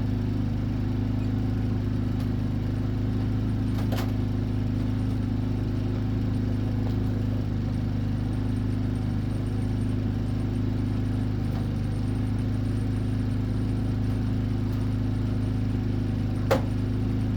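Steady low machine hum that holds one pitch and level throughout, with a couple of faint clicks, one about four seconds in and one near the end.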